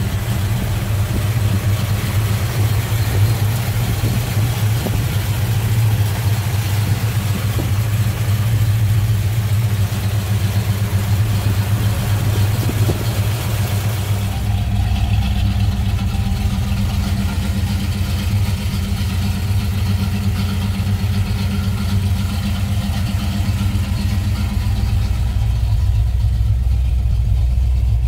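Rebuilt Pontiac 400 V8 with Holley carburettor, Hooker headers and dual exhaust idling steadily, with no revving. About halfway through, the sound shifts: the hiss drops away and a deeper hum comes up.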